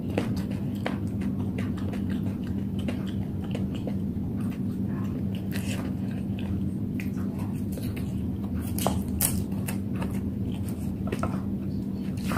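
Close-miked chewing of a mouthful of noodles, with many short, sharp mouth clicks and smacks at irregular intervals over a steady low hum.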